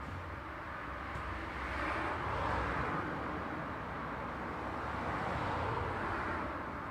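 Road traffic: two vehicles pass one after the other, their tyre and engine noise swelling and fading over a steady low rumble.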